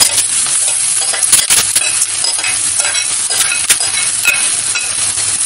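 Onions frying in oil in a steel kadhai, a steady sizzle, as boiled, crumbled potatoes are tipped in from a glass bowl. Frequent irregular clicks and scrapes of a utensil against the pan and bowl run through it.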